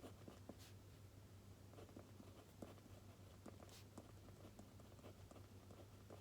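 Faint pen writing on paper: irregular small scratchy strokes and taps, over a low steady hum.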